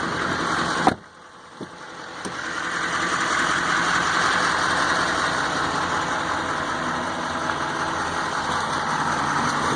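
Duramax 6.6-litre V8 turbo-diesel idling, with a sharp thump about a second in; after it the sound dips, then swells back up over a couple of seconds and runs steadily.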